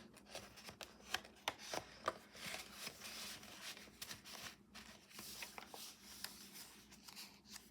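Paper and card pages of a handmade junk journal rustling as they are handled and turned, with many small sharp clicks and crinkles.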